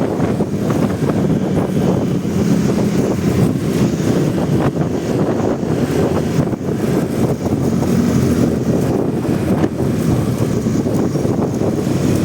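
Wind buffeting the microphone of a motorcycle rider's camera while riding, over the steady running of the motorcycle's engine and surrounding traffic.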